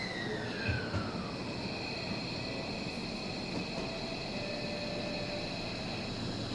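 Electric train at a station platform: a motor whine falls in pitch over the first second, then a steady high hum continues over a constant running noise.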